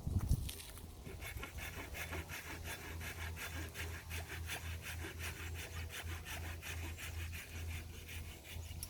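Hand pruning saw cutting through a tangerine tree branch with steady, rhythmic back-and-forth strokes.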